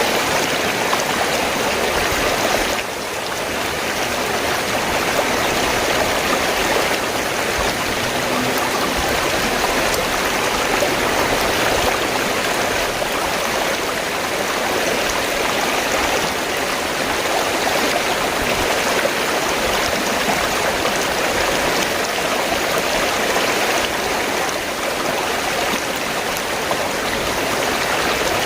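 River water flowing in a steady, continuous rush, dipping slightly for a moment about three seconds in.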